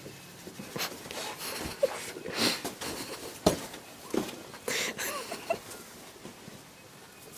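A boulderer's loud breaths and sniffs during an attempt on a rock problem, with shoes and hands scuffing on the rock and one sharp tap about three and a half seconds in.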